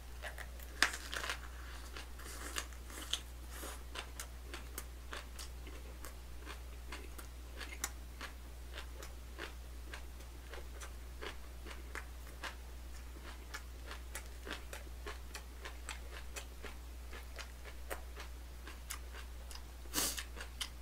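Close-up chewing of a bossam wrap of salted napa cabbage with raw oysters: a steady run of small crunches and mouth clicks, with louder bites about a second in and near the end. A low steady hum lies underneath.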